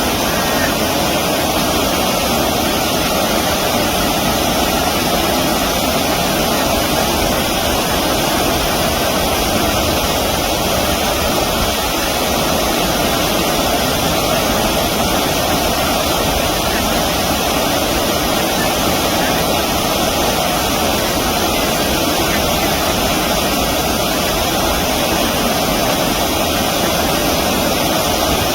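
Steady, loud rush of flowing stream water.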